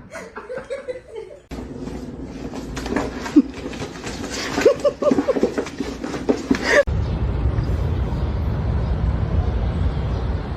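People laughing in short rapid bursts, cut abruptly into a steady low rumble for the last few seconds.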